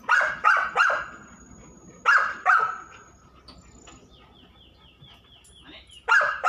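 A dog barking loudly: three barks in quick succession, two more about two seconds in, and another near the end.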